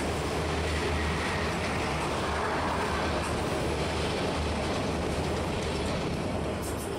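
Freight train of autorack cars rolling past: a steady noise of steel wheels on rail that eases slightly near the end as the last car goes by.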